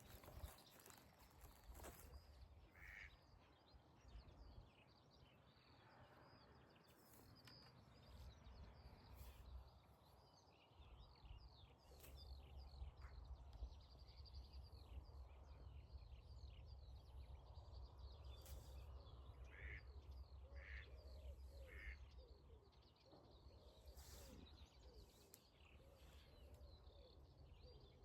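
Faint bird chirps and calls, thickest in the middle of the stretch, over a low steady rumble.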